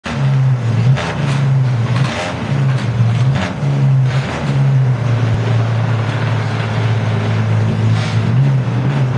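Ferrari 599XX's V12 engine running loudly at a fast idle, with a few short, sharp blips of the throttle about one, two and three and a half seconds in and again near the end.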